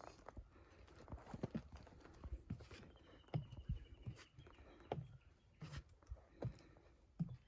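Irregular footsteps, short thuds and knocks about one to two a second, with a faint high thin tone for about a second and a half midway.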